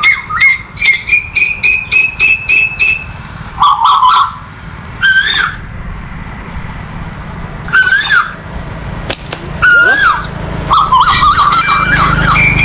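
Loud bird calls. A quick run of repeated high notes, about three a second, lasts for the first three seconds. Then come several short calls that rise and fall, spaced a few seconds apart, and another run of high notes near the end.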